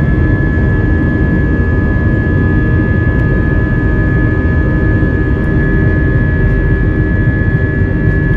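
Airbus A320's IAE V2527-A5 turbofan engines running, heard from inside the passenger cabin: a steady, loud roar with a constant high whine over it.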